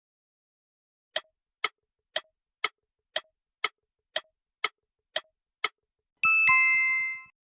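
A clock-tick countdown sound effect ticks ten times, about two a second, then a two-note ding-dong chime, high then low, sounds near the end.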